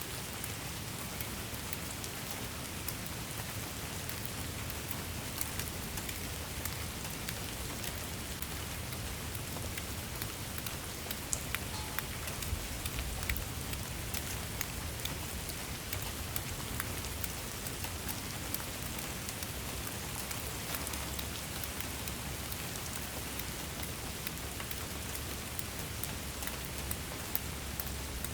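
Steady rain falling on a surface, with many close individual drops ticking over the rain's even hiss and a low rumble underneath.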